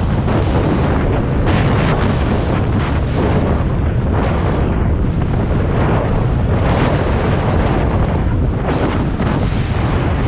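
Loud wind buffeting on the microphone of a moving scooter, over the steady running of the Yamaha Aerox 155's single-cylinder engine.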